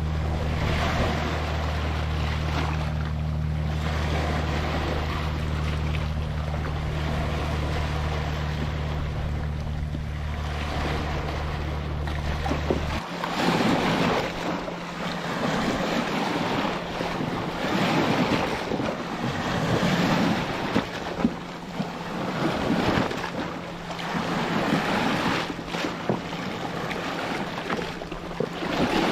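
Ocean waves washing and breaking on a beach, swelling and ebbing, with wind buffeting the microphone. A steady low drone underlies the first half and stops about halfway through.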